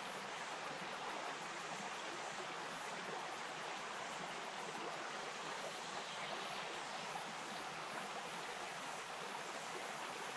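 A bush stream flowing over stones, a steady, even rush of water.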